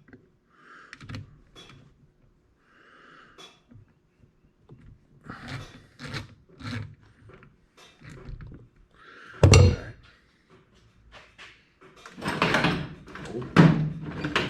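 Clicks, knocks and clunks of hand tools and parts as a carburetor is taken apart on a workbench, with one sharp loud clunk about halfway through and a longer clatter near the end.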